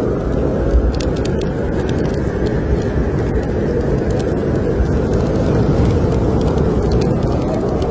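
Steady low roar of blizzard wind, with the sharp pops and crackles of a wood fire in a fireplace scattered through it.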